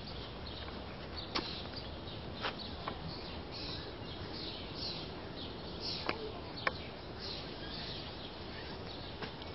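Outdoor ambience with small birds chirping: a run of short, falling high chirps in the middle. A few sharp clicks are scattered through it.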